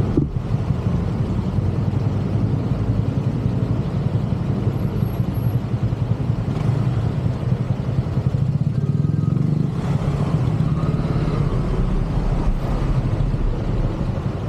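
Steady low rumble of road and traffic noise with wind on the microphone, heard from a fixed-gear bicycle riding through city traffic.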